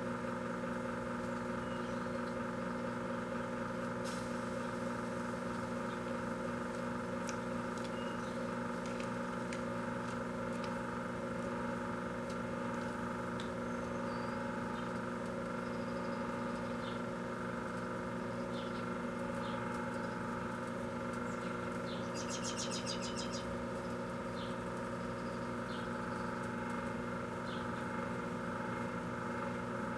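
Microwave oven running: a steady hum with many evenly spaced overtones. A few faint high ticks are scattered through it, and a brief rapid chirring trill comes about twenty-two seconds in.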